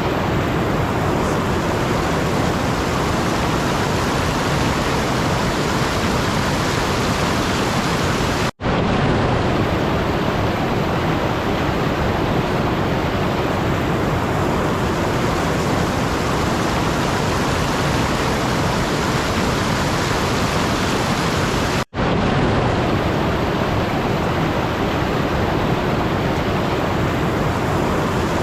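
Steady, even rushing noise with no tone or rhythm, like pink noise or heavy rain, cutting out for an instant twice.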